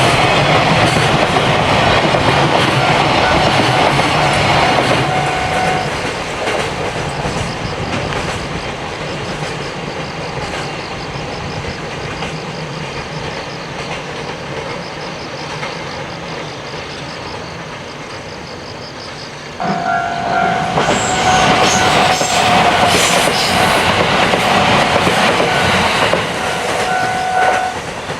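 Train running on the rails, with the clatter of wheels over the track. A steady held tone sounds at first, and the noise gets suddenly louder about twenty seconds in, when the tone comes back.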